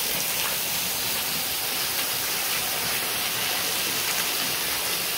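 A waterfall close by: falling water making a steady, even rush with no let-up.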